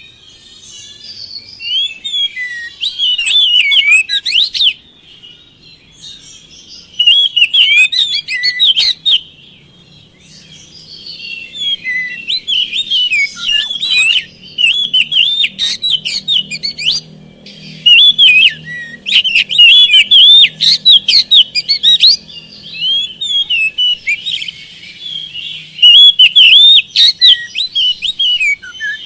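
Oriental magpie-robin (kacer) singing in loud bouts of rapid, varied whistled phrases, with short pauses between the bouts.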